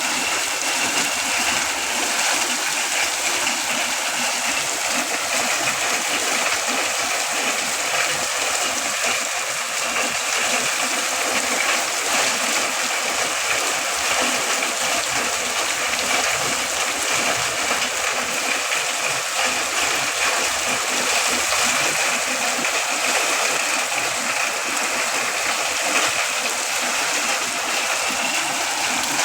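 Heavy rain falling in a steady, dense hiss of raindrops, with no single drops or pauses standing out.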